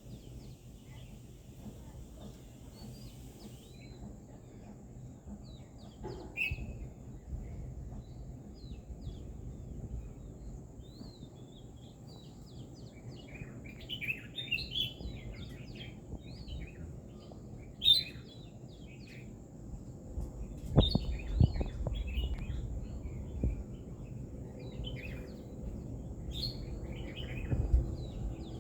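Small birds chirping and calling in short, quick phrases, sparse at first and busier in the second half, over a steady low background rumble. A few low thumps come through about two-thirds of the way in and near the end.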